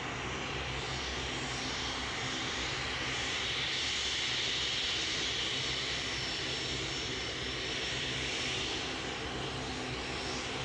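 Airliner engines running near the runway: a steady rumble and hiss that swells a little about four to five seconds in.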